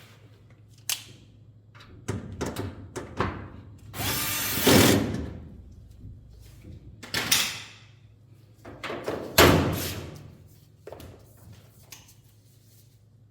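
Work sounds of metal parts and tools being handled: scattered knocks and clicks, a louder scraping rush about four seconds in, and a heavy clunk about nine seconds in.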